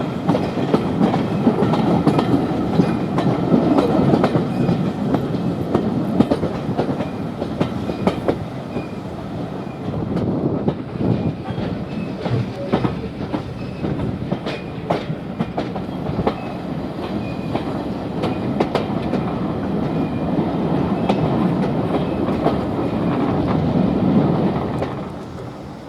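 A train running along the track, its wheels clicking over the rail joints under a steady rumble. The sound drops away right at the end.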